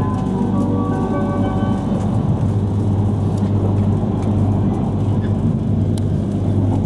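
Yamagata Shinkansen Tsubasa train running, heard inside the carriage: a steady low rumble with rail and running noise. Faint background music fades out in the first couple of seconds.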